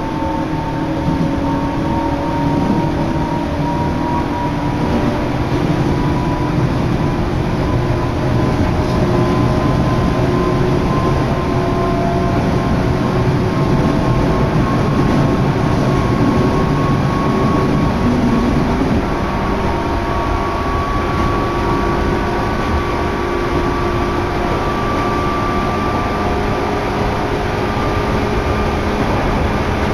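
Sagami Line electric train running between stations, heard from inside the car: a steady rumble and rush of running noise, with a faint motor whine that slowly rises in pitch.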